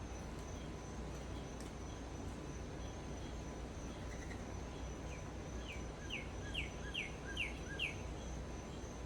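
Steady high insect trill throughout, with a songbird in the second half repeating a short falling whistled note about seven times, roughly two a second.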